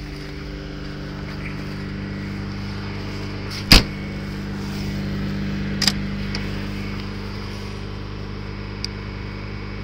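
Lada engine idling steadily. A sharp knock comes a little under four seconds in, and a smaller one about two seconds later.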